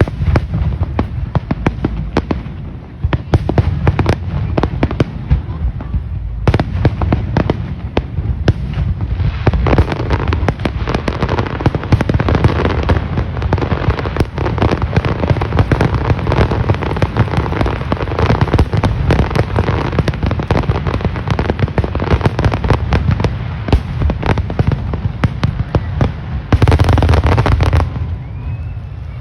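Aerial fireworks display: a dense, rapid crackle of many bursts that thickens about a third of the way in and ends in a loud final flurry, then dies down.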